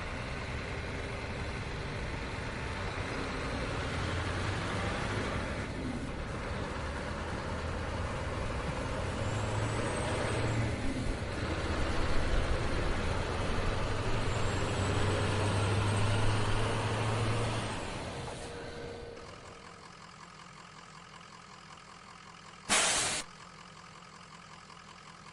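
Scania truck driving, its engine and road noise steady and then dying away as the truck slows to a stop. Near the end comes one short, sharp blast of air from the truck's air brakes.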